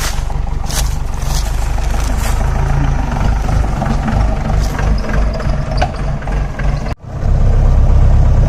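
4x4 jeep engine running with a steady low rumble, with sharp clicks and knocks in the first few seconds. It cuts out abruptly near the end and comes back louder.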